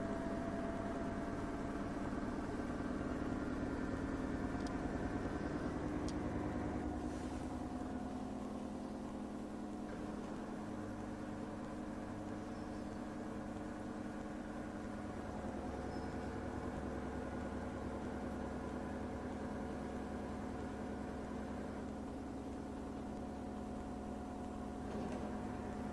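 LG direct-drive washing machine spinning: a steady motor hum with several tones. The hum drops a little and the tones shift about a quarter of the way in, and shift again past halfway as the drum changes speed.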